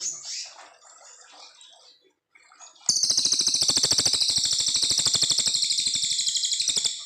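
Cililin coklat songbird singing: a few soft scattered chirps, then about three seconds in a loud, high, rapid trill that starts abruptly and runs on evenly for about four seconds, the long burst that bird keepers call 'nembak panjang'.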